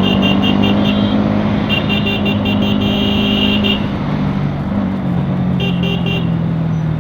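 Bajaj Pulsar NS200 single-cylinder engine running in slow traffic, with a horn beeped in rapid repeated taps in three bursts, the longest in the middle. The engine note drops lower about five seconds in as the bike eases off.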